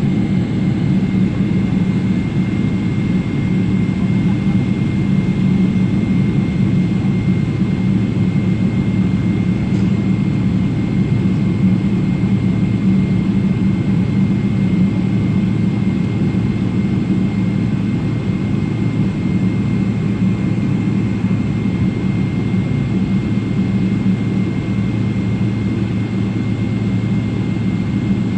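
Steady jet cabin noise inside a Garuda Indonesia Boeing 777, its GE90 engines and airflow making an even low rumble with a faint high whine on top.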